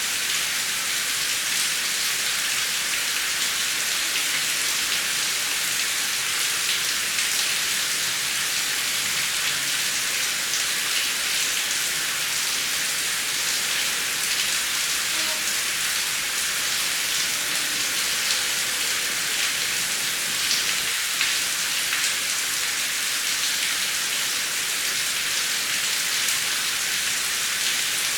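Heavy rain falling steadily, a dense even hiss of drops with no thunder heard.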